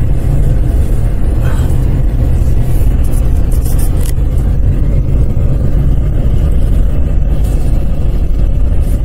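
Car driving on a snow-covered road, heard from inside the cabin: a loud, steady low rumble of engine and tyres on packed snow.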